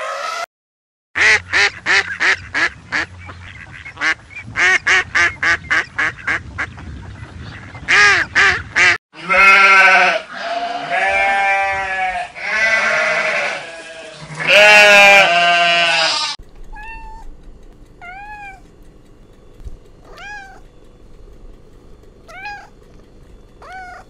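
A sheep bleats several times in long, wavering calls. Before it comes a fast run of short, sharp animal calls, and after it a small bird chirps about once a second.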